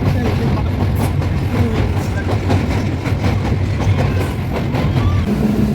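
Moving train running on the rails: a steady low rumble with wheels clacking over rail joints.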